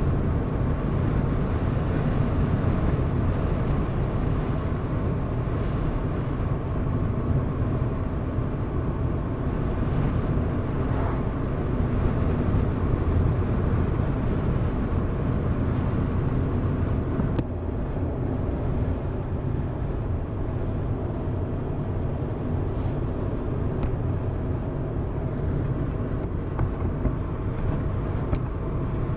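Car driving at a steady pace: continuous engine and tyre noise, which drops a little in level about seventeen seconds in.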